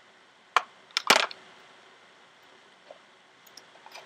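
A few sharp clicks and knocks from small hard objects being handled and set down. There is one click about half a second in, then a louder short clatter just after a second in.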